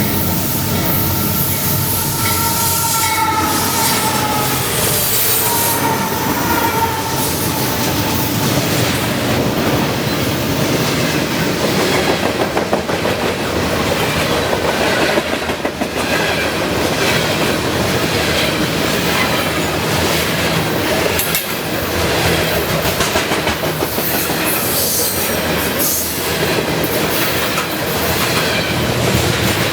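A train rolling past close by, its wheels clicking and clattering steadily over the rails. A high-pitched tone sounds for the first several seconds, then fades.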